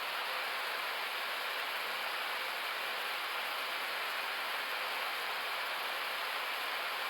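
Steady airflow hiss inside an Airbus A321neo flight deck during the descent.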